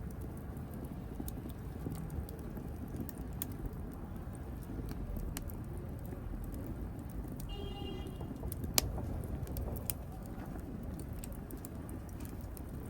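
Wood fire burning in a fireplace: a steady low rush of flame with scattered crackles and small pops, one sharp loud pop a little past the middle. Shortly before that pop comes a brief high whistle.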